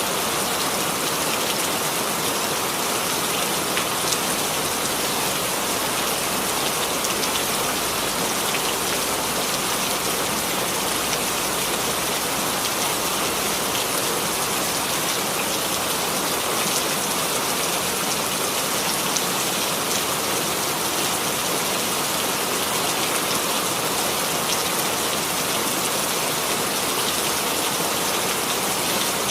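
Steady rainfall, an even patter of drops hitting a surface.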